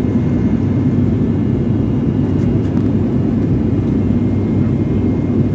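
Steady low rumble of an airliner's engines and airflow heard inside the passenger cabin in flight, even and unchanging throughout.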